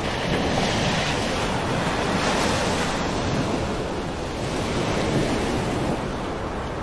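Floodwater rushing: a steady roar of water that swells and eases every second or two.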